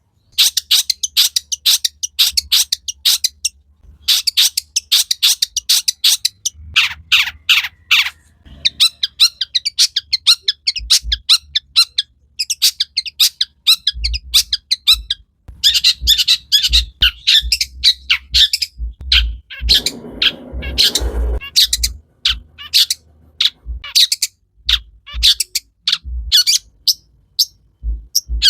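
Long-tailed shrike (cendet) singing: fast runs of sharp, chattering high notes in bursts of a few seconds with short pauses between, over a low steady hum.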